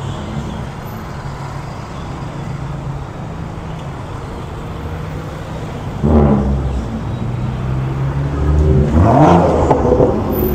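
Car engines running as cars roll slowly past; about six seconds in it gets suddenly louder, and near the end an engine revs up with a rising pitch.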